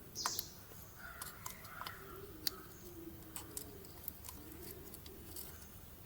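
Faint, scattered light clicks and taps of small parts being handled, with a short hiss about a quarter of a second in: hand work on the oil filter cartridge and its O-ring.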